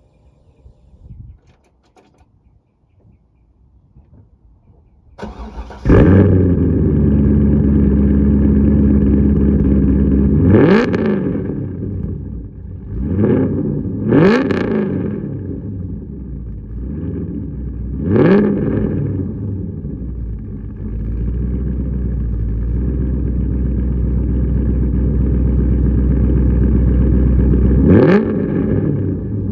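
C5 Corvette 5.7-litre V8 breathing through long-tube headers and a Billy Boat exhaust, started about five seconds in and then idling with a deep steady rumble. It is blipped five times, each rev rising sharply and dropping straight back to idle.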